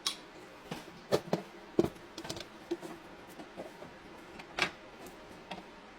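Irregular clicks and knocks of small hard objects being handled, with the sharpest ones about a second in, near two seconds, and a louder one past the middle.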